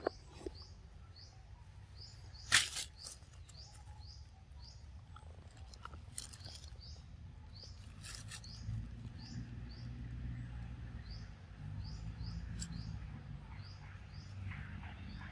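Small birds chirping in the forest, a short rising note repeated several times a second in runs. A few sharp crackles cut in, the loudest about two and a half seconds in, and a low rumble builds in the second half.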